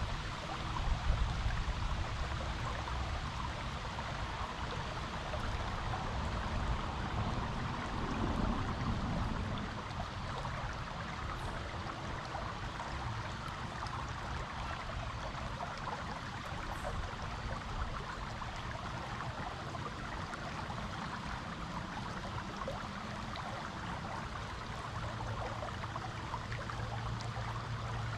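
Stream water flowing steadily over rocks, a continuous even rushing. A few low rumbling bumps come in the first couple of seconds and again about eight seconds in.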